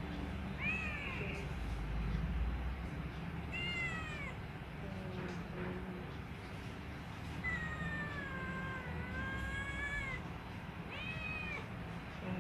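Domestic cat meowing four times: three short arching meows and one long drawn-out meow that dips and rises again, over a steady low hum.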